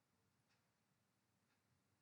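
Near silence: faint room tone with two very faint clicks about a second apart.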